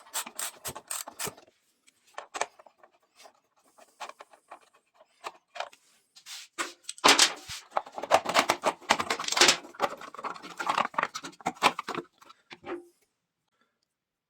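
Hand work on metal parts: scattered clicks and light scraping, then a busy run of clinking and scraping from about halfway in until near the end.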